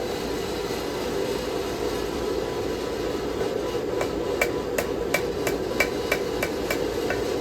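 A forging hammer striking a knife blade on an anvil, starting about four seconds in, about three ringing blows a second: final hammer corrections to the blade's shape. A steady rushing noise runs underneath.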